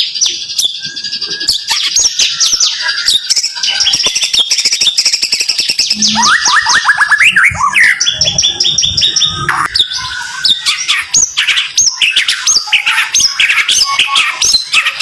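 White-rumped shama (murai batu) singing a loud, dense song of rapid-fire repeated notes and trills, the fast burst phrases that murai keepers call 'tembakan'.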